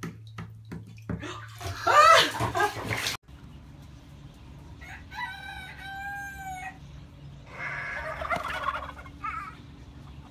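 A loud, high, wavering cry about two seconds in, then a rooster crowing once in one long drawn-out call, followed by a rougher call from the other fowl.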